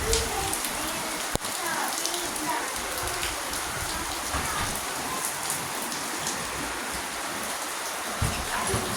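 Steady rain falling and pattering on surfaces, with a single sharp click about a second and a half in.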